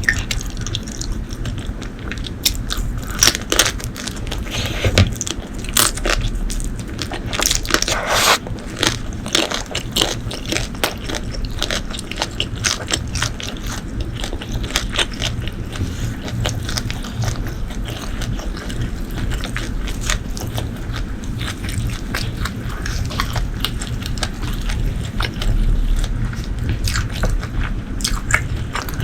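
Close-miked eating: steady chewing and biting with many small crunches and mouth clicks throughout.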